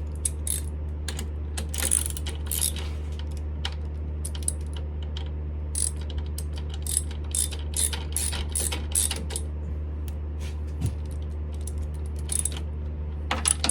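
Irregular metallic clicks and clinks of a threaded transmission fill plug being set up and tightened in the chuck of a Smithy CB-1220XL 3-in-1 lathe, over a steady low hum.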